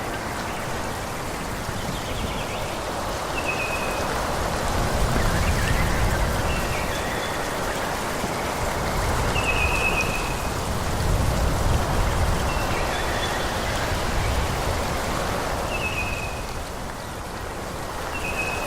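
Wind rushing through forest trees, a steady leafy hiss with low gusts that swell and ease. Short high bird chirps come in every few seconds over it.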